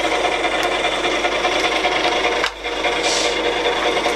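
Colchester Bantam 1600 Mk 2 lathe running in low range with its feed gearbox engaged: a steady, busy whir of meshing gears. The sound briefly dips about two and a half seconds in.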